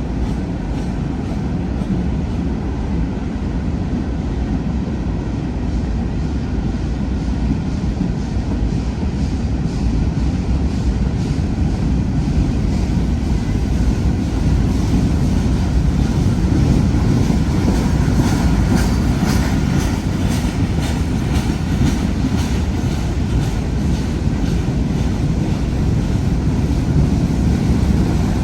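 Freight train cars rolling past: a steady, loud rumble of steel wheels on rail, with a few seconds of rapid clacking a little past the middle.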